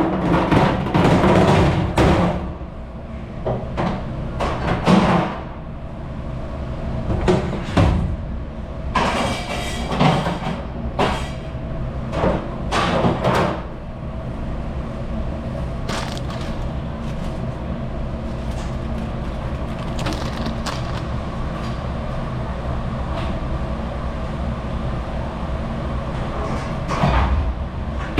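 Dish-room machinery running with a steady drone, while dishes and racks clatter and knock in quick bursts through the first half and again near the end.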